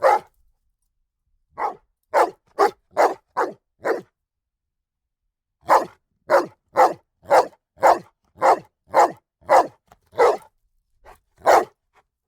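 A dog barking repeatedly in short, sharp barks, about two a second. There is a quick run of barks, a pause of nearly two seconds, then a longer run.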